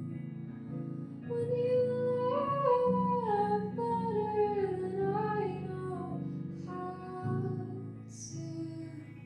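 Live song with voice and guitar: a sung or hummed melody comes in about a second in and steps downward in pitch, over sustained guitar chords.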